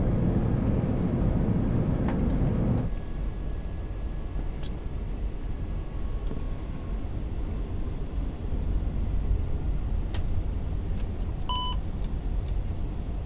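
Steady low rumble of airflow and engine noise in an Airbus A380's cockpit on approach. A louder rushing layer cuts off suddenly about three seconds in, and a short beep sounds near the end.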